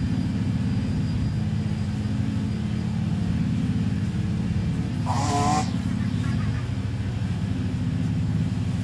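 Small petrol engine of a lawn mower running steadily. About five seconds in there is a brief, sharper higher-pitched sound.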